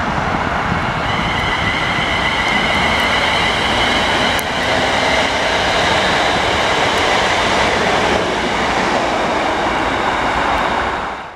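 Electric multiple unit passing at speed: a steady rush of wheels on rail, with a high whine over it from about one to five seconds in. The sound cuts off suddenly at the end.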